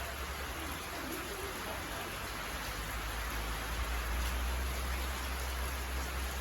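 Steady rain falling, an even hiss, with a steady low rumble underneath.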